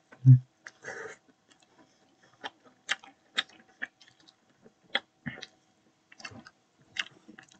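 Close-up chewing of pizza: irregular mouth clicks and smacks, with a brief hum just after the start.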